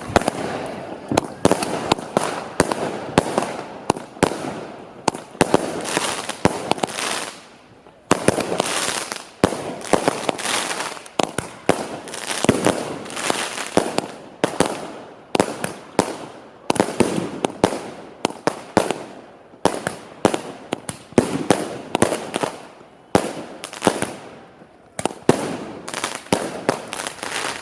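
Fireworks going off in a continuous barrage of sharp bangs, several a second, with a short lull about a third of the way in.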